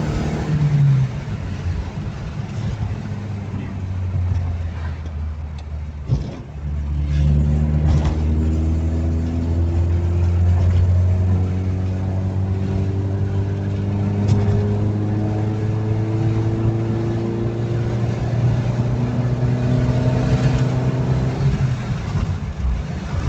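VW Fox's 1.9i engine breathing through a new exhaust system, the car accelerating under load: the engine note breaks off briefly about six seconds in, then climbs slowly and steadily for about fifteen seconds.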